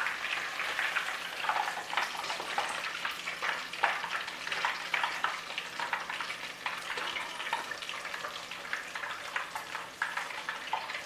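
Breaded cheese grits deep-frying in hot oil in a deep fryer: a steady, dense sizzle full of small crackles.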